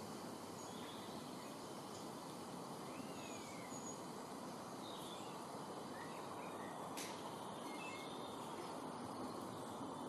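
Faint, scattered chirps of small birds over a steady hiss of outdoor background noise, with one sharp click about seven seconds in.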